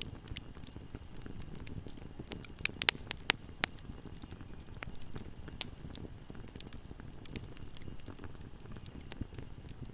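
Campfire burning with a steady low rumble and scattered crackles, with a few sharper, louder pops about three seconds in.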